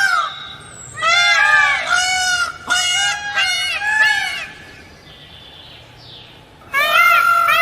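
Green peafowl calling: loud, repeated arching honk-like notes in a quick run of about seven, a lull of about two seconds, then another run starting near the end.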